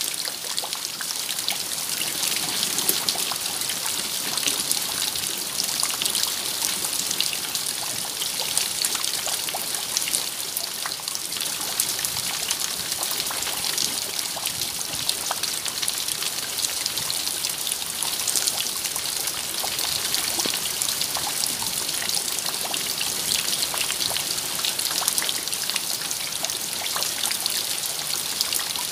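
Steady rain: an even hiss, bright and high, full of fine, quick drop ticks.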